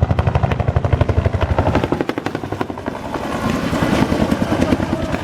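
Bell UH-1 Huey helicopter flying past, its two-bladed main rotor making a rapid, steady chop over the Lycoming T53 turbine. The sound dips about two seconds in and then builds again as the helicopter comes round.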